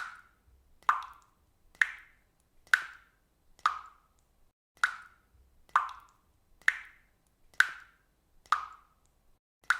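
Water dripping: single drops plop one after another at a steady, even rate of about one a second, eleven in all.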